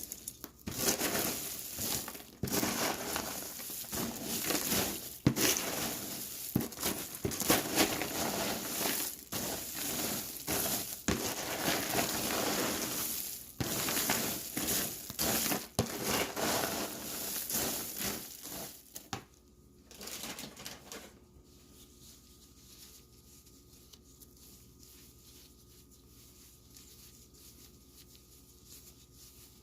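Popcorn coated in melted almond bark being stirred and tossed with chunks of cotton candy: a dense, irregular crunchy rustling that stops about 21 seconds in.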